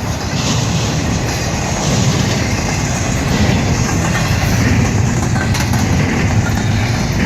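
CSX freight train's diesel locomotives rumbling steadily, with a few faint clicks.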